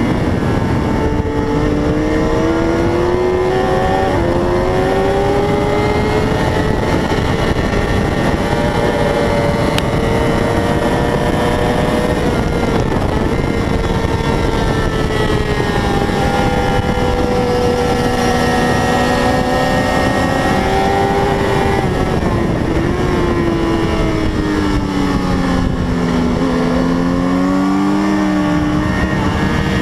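A 600cc racing motorcycle engine running hard at race pace, its note climbing and falling as it changes gear, over a steady rush of noise. Near the end the pitch drops to its lowest and then climbs again.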